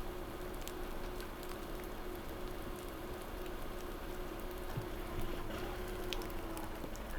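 Quiet, steady car running noise heard inside the cabin, with a faint steady tone and scattered light ticks like drops on the car.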